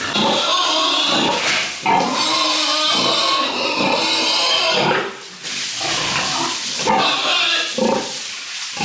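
Pigs squealing in long, loud, strained calls, with a short break about five seconds in.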